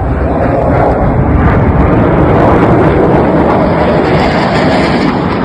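Airplane flying past overhead: a loud, steady roar that builds to a peak about halfway through and eases a little toward the end.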